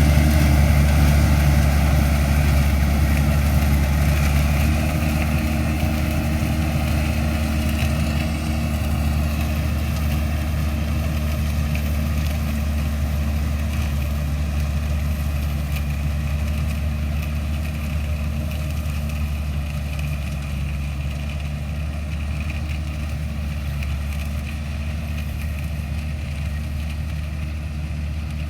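Rice combine harvester's engine running steadily, gradually getting quieter.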